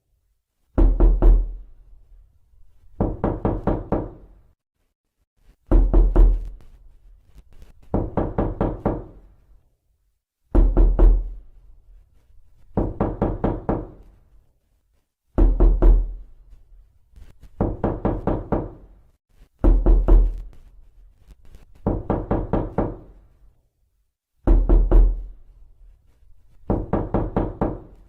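Knocking on a door in repeated bursts of several rapid knocks, a burst every two to three seconds. Heavier bursts with a deep thump alternate with lighter ones.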